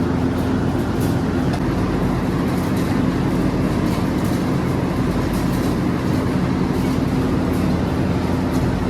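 Steady drone of running factory machinery, with scattered light metallic ticks and clinks over it.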